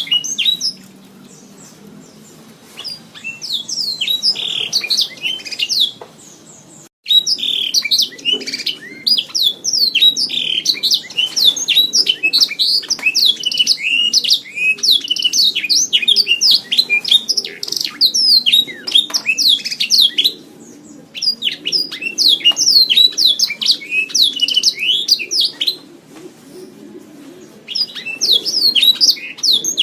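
Domestic canary singing: long, rapid runs of chirps and trills, broken by several short pauses.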